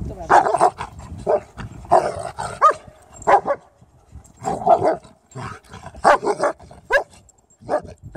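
Dogs barking and yipping in short bursts while playing, roughly one or two sounds a second, some with a quick rise or fall in pitch.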